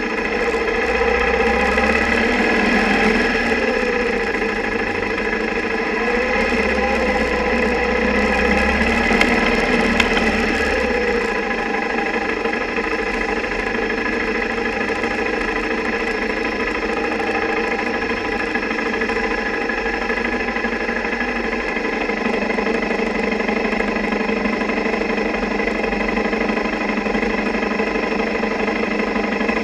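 Single-cylinder motorcycle engine running, picked up mostly as vibration through the camera mount, with the camera's underwater housing rattling from the engine's vibration. Its pitch wavers in the first ten seconds or so, then holds steady.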